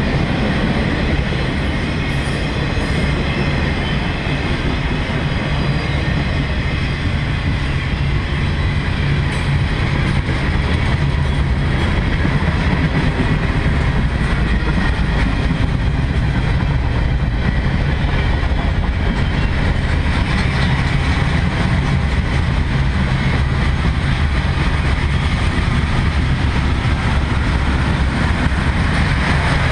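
Norfolk Southern freight train's cars rolling past: a steady, loud noise of steel wheels on rail, with light clickety-clack.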